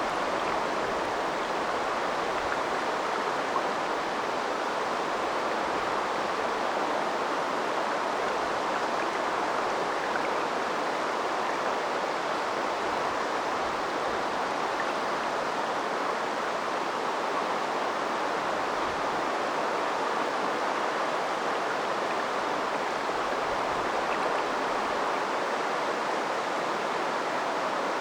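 A river runs steadily over its bed, a continuous even rush of flowing water with a few faint small splashes.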